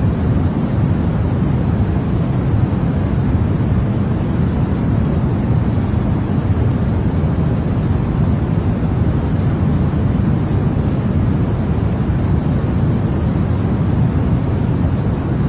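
Continuous sleep 'white noise' played for a baby: an unbroken, even rush of noise, weighted toward the deep end so it sounds more like a low, soft roar than a hiss.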